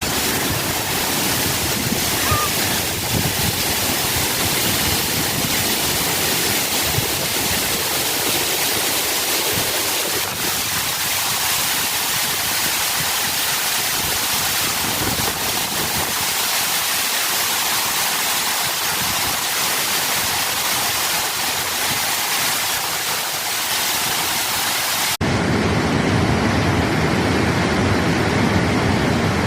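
Big waterfall rushing, a loud, steady wash of falling water. About 25 seconds in, the sound changes abruptly to a deeper, duller rush.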